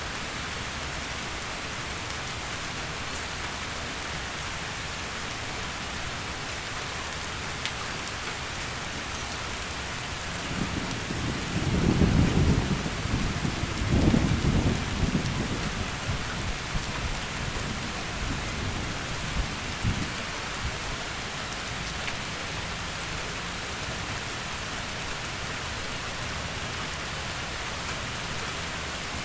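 Steady heavy rain falling, with a roll of thunder rumbling in about a third of the way through, peaking twice in quick succession and dying away over several seconds.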